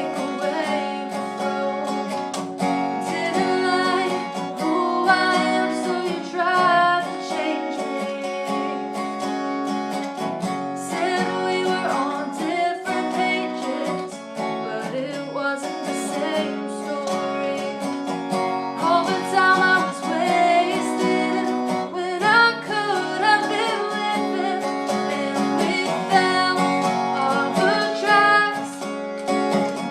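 A song: a voice singing a melody over strummed acoustic guitar.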